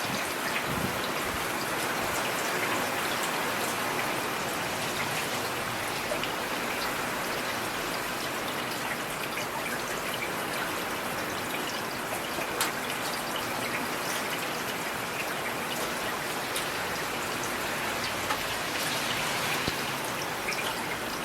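Steady rain falling, a constant hiss with individual drops tapping through it now and then.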